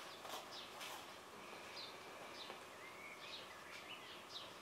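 Faint birds chirping: a few short high chirps and a longer wavering call in the second half, over quiet room tone.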